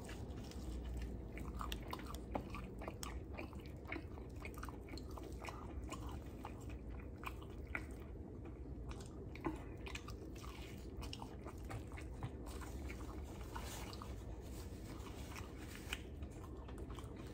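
A man chewing and biting into Nashville hot fried chicken, faint with many short, scattered crunchy clicks from the fried crust.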